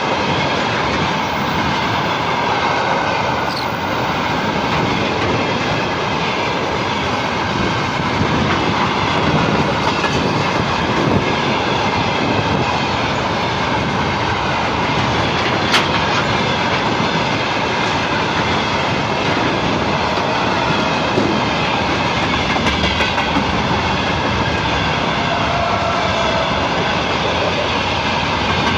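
Freight train rolling past on the rails, a steady loud noise with one sharp click about halfway through.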